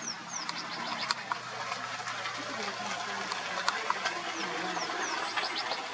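Small birds chirping: quick runs of short, high, falling notes and sharp clicks, over the faint low hum of an idling vehicle engine.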